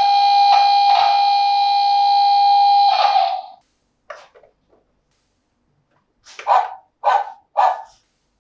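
Electronic sound effects from a PAW Patrol toy's speaker: a steady held tone for about three and a half seconds, then three short recorded dog barks about half a second apart near the end.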